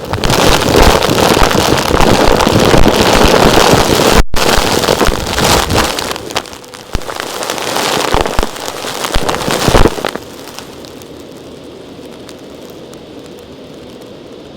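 Small rocks rattling and crackling as many tiny grains knock together, dense and loud, with a brief break about four seconds in, stopping suddenly about ten seconds in and leaving a quieter steady hiss.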